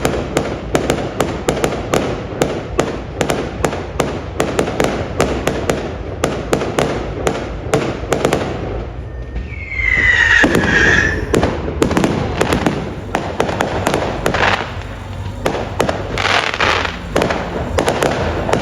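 Fireworks display: a rapid barrage of crackling bangs, many a second, with a brief high sound falling in pitch about ten seconds in.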